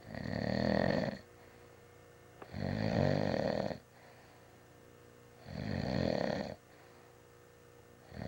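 A person snoring loudly, a rattling snore about every three seconds, each lasting about a second, with a fourth starting at the very end.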